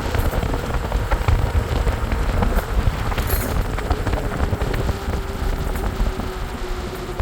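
Steady rumble and hiss of wind and road noise while riding, with scattered small clicks and rattles; a faint tone drops slightly in pitch near the end.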